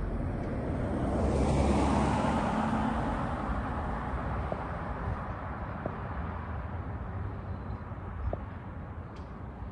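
A road vehicle passing by: a rush of tyre and engine noise that swells about a second in and slowly fades away, with a few faint ticks near the end.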